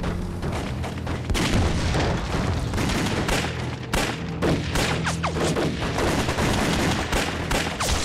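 Gunfight sound effects: rapid, irregular rifle and machine-gun fire, shot after shot with no pause, with a few falling whistles about halfway through.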